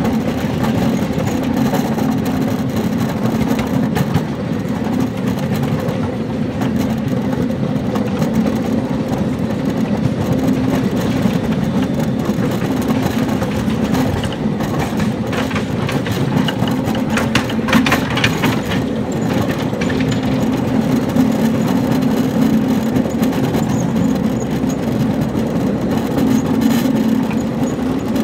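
Quarter-scale ride-on train running along its track: a steady rumble of steel wheels on rail and rattling cars, with a spell of sharper clacks and rattles about midway.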